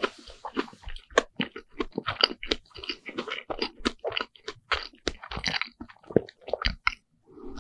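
Close-up chewing of a mouthful of deep-fried bread sandwich (fried Lunch Pack), its crisp fried crust crunching several times a second. The crunching stops about seven seconds in.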